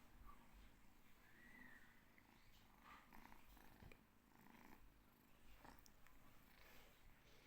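Faint purring of a cat held close.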